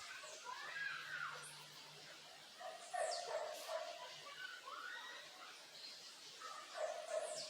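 Backyard birds singing and calling, with many short, high, falling whistled notes and chirps. A louder, lower call sounds twice, about three seconds in and near the end.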